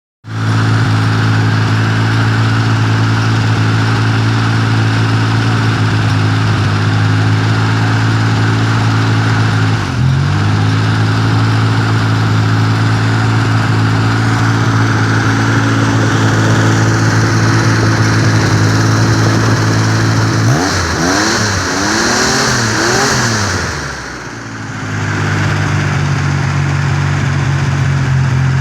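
A 1977 Ford 2.0 V6 engine running steadily. There is a brief dip in speed about ten seconds in. About two-thirds of the way through it is revved up and down several times in quick blips, then settles back to a steady run.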